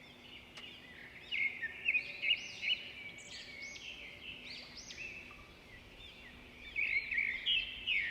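Several birds chirping and singing, with many short rising and falling notes overlapping, busiest in the first few seconds and again near the end.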